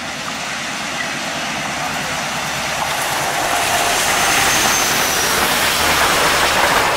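WDM-class diesel locomotive hauling an express train past at speed, growing steadily louder as it approaches and passes, followed by the rush of its passenger coaches rolling by.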